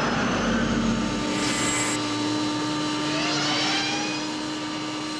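Car engine running at speed as the car drives past, with a steady drone and whining tones that rise in pitch about three seconds in.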